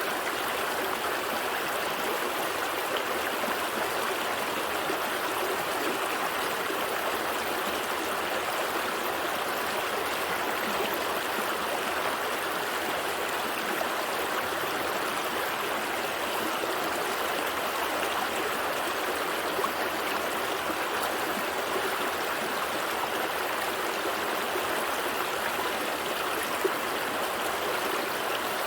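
A gentle stream flowing over rocks: a steady rush of running water with small splashes and trickles.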